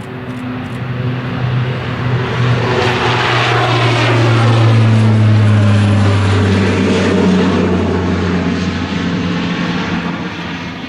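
An aircraft flying low overhead. Its engine sound grows louder, peaks about halfway through, then fades, and its pitch drops as it passes.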